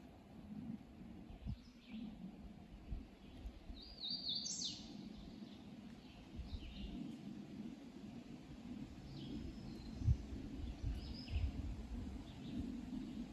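Songbirds chirping in short high calls, loudest about four seconds in, over a steady low rumble, with a few dull thumps later on.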